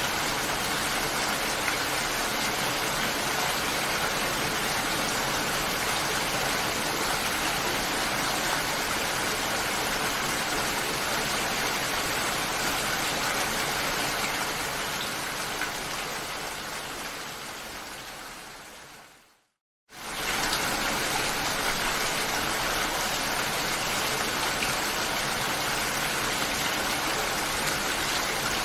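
Steady heavy rain, a dense even hiss. About two-thirds of the way through it fades away over a few seconds to a brief moment of silence, then starts again at full strength all at once.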